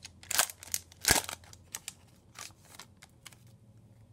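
A hockey card pack's wrapper being torn open and crinkled: two loud rips within the first second or so, then lighter crackles that stop about three and a half seconds in.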